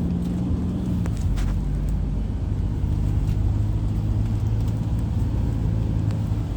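A motor vehicle running along with a steady low engine and road rumble.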